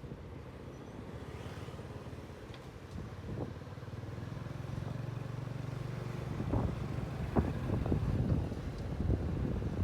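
Motorcycle engine running steadily, its hum growing louder about halfway through, with gusts of wind buffeting the microphone in the second half.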